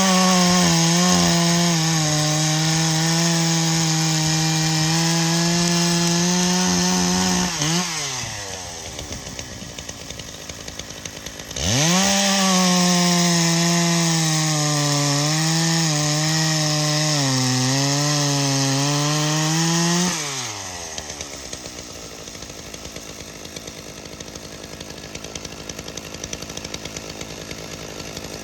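Dolmar PS 9000 two-stroke chainsaw running on its replacement ignition coil, spark restored: revved up and held at high speed for about eight seconds, dropped back to idle, revved again for about eight seconds with the speed wavering a little, then back to idle, starting to rev once more at the very end.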